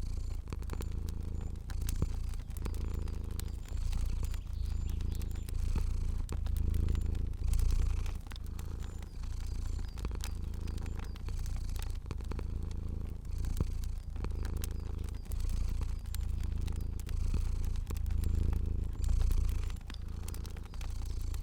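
Domestic cat purring, a low rumble that swells and eases about every second and a half, with scattered sharp crackles from a wood fire.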